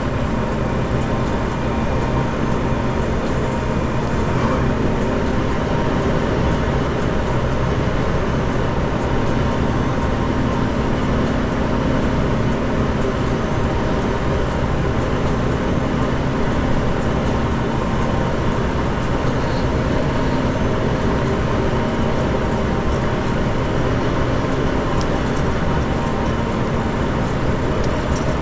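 A vehicle engine idling steadily: a constant low hum that holds one pitch throughout.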